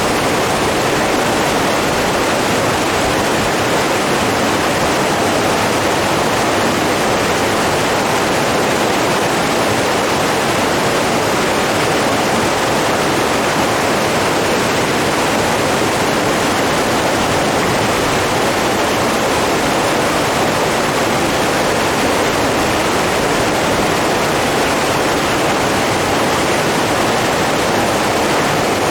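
Running water rushing steadily, an even, unbroken roar.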